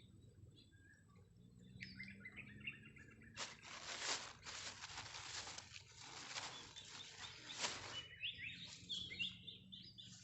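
Small birds chirping in short calls. A few seconds in, a hissing noise without any tune takes over for about four seconds, and then the chirping returns.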